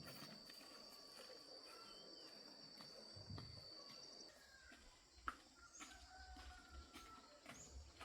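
Faint rural outdoor ambience: a steady high insect trill that stops about four seconds in, a few faint whistled bird calls, and a single sharp click a little after the middle.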